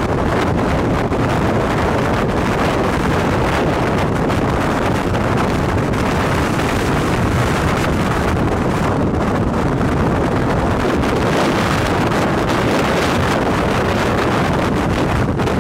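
Strong wind buffeting the microphone: a loud, steady rushing noise with no distinct tones or pauses.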